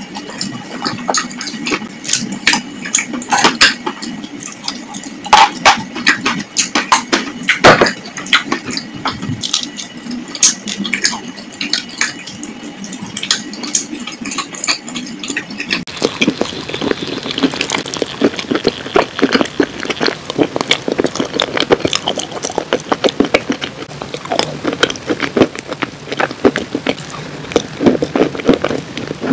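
Close-up chewing of wet chalk paste: wet crunching and smacking mouth sounds with many sharp, irregular clicks. About halfway through, the chewing becomes denser and wetter.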